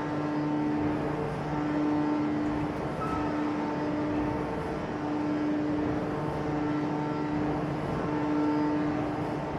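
Forge-shop machinery running with a steady mechanical din, and a humming tone that cuts in and out about every second and a quarter.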